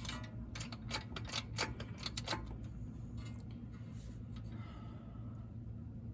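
Jack under the control arm being pumped: a run of sharp metallic clicks, about four a second for the first two seconds or so, then fewer and fainter.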